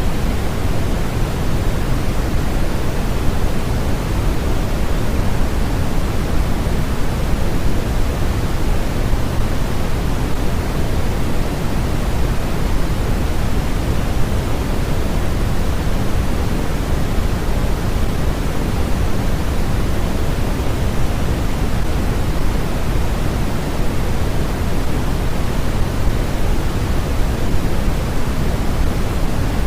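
Steady generated noise of the sleep-and-focus kind: an even, unchanging hiss, heavier in the low end than in the treble.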